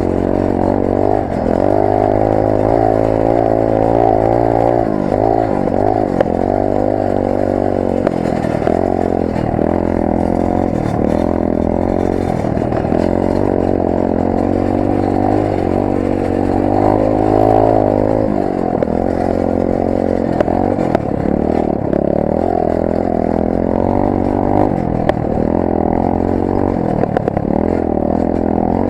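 Rampage 125 cc pit bike engine heard onboard, its revs rising and falling again and again as the throttle is opened and closed, with a few sharp clicks now and then.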